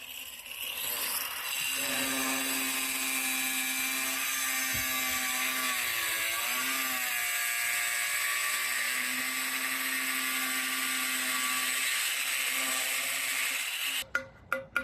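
A handheld power tool's motor running steadily for about twelve seconds, its pitch dipping briefly midway, then cutting off abruptly; a quick, even run of clicks follows near the end.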